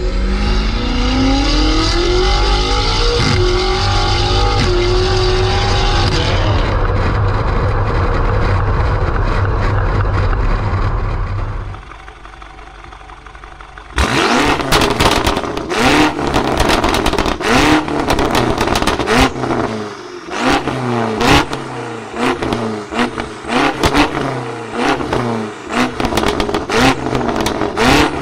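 BMW M8 Gran Coupe's twin-turbo V8 accelerating hard, its pitch climbing, then running steadily. After a brief quieter lull it is revved in repeated short blips, with sharp pops and crackles from the exhaust.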